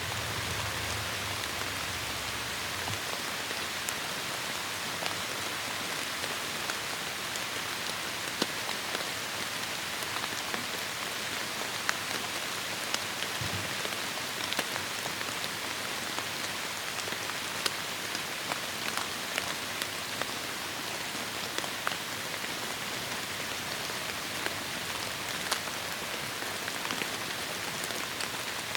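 Heavy rain falling steadily on forest foliage, a dense hiss with many sharp drip and drop ticks scattered through it. A low rumble in the first three seconds and a brief low thump about halfway through.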